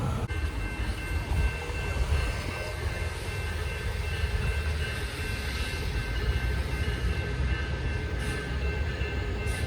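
A train running on the line: a steady low rumble with a few high, steady tones held over it.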